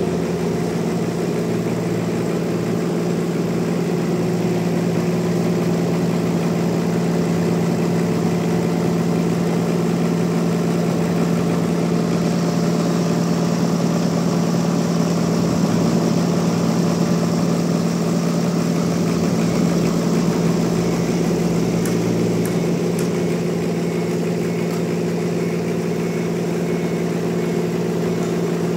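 Sawmill machinery running steadily: a constant, even engine-like hum that holds the same pitch throughout.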